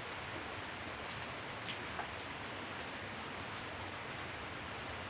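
Steady rain falling on a wet paved yard and leafy plants, with a few single drops landing close by, the loudest about two seconds in.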